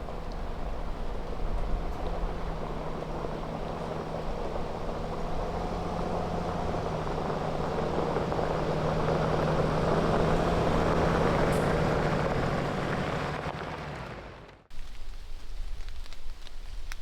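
A steady engine-like drone with a low hum, growing louder and then fading, cut off sharply near the end.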